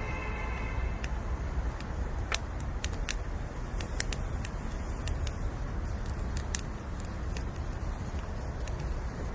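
Bamboo firewood burning in a campfire: sharp crackles and pops at irregular intervals over a steady low rumble, with a faint whistle in the first second.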